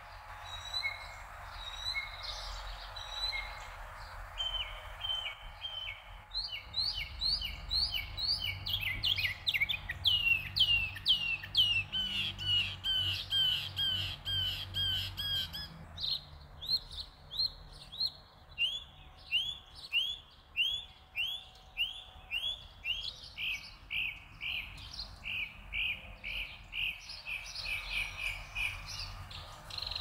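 Songbirds singing outdoors: long runs of short, down-slurred chirps repeated several times a second, with softer calls around them. A low rumble runs underneath for several seconds in the first half.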